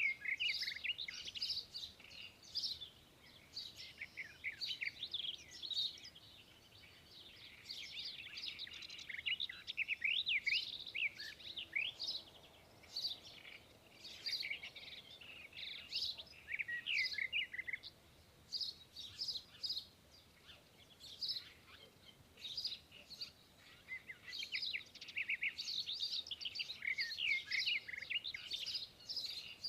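Songbirds chirping and singing: many short, high, quick calls overlapping in a busy chorus that thins out for a few seconds at a time and then picks up again.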